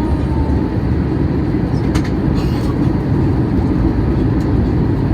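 Boeing 737-800 cabin noise during the descent to landing: a loud, steady rumble of engine and airflow.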